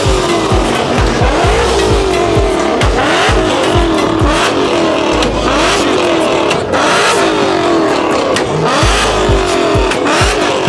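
Car engines revving hard again and again, the pitch climbing on each rev, over loud music with a thumping bass beat.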